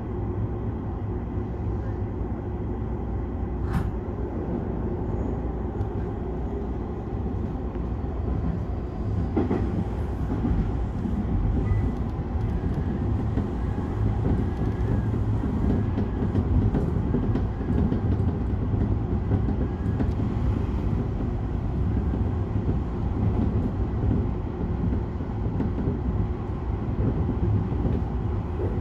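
Electric commuter express train running along the line, heard from inside the carriage: a steady low rumble of wheels on rail, with a sharp click about four seconds in.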